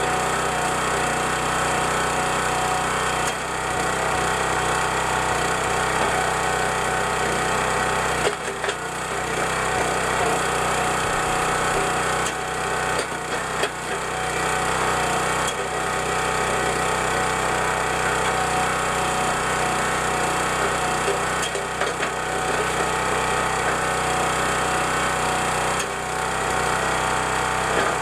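Petrol engine of a County Line 25-ton log splitter running steadily while rounds are split, with a few sharp cracks of wood giving way.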